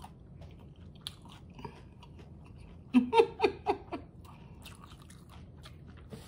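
Close-miked eating of a crunchy hard-shell taco: wet mouth clicks and smacks from chewing and finger licking, with a louder run of about five quick mouth sounds about three seconds in.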